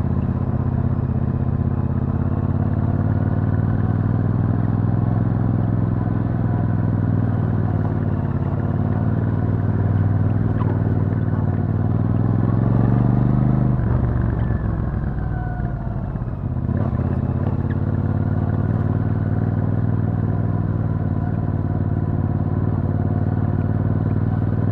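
Royal Enfield Super Meteor 650's parallel-twin engine running through its stock exhaust while riding. The note climbs gently, drops sharply about halfway through as the throttle comes off, dips briefly again soon after, then settles into a steady pull.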